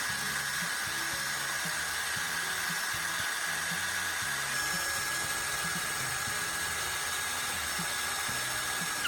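Electric drill running steadily, spinning a carbon rod against sandpaper to sharpen its tip: a steady motor whine with a dry sanding hiss.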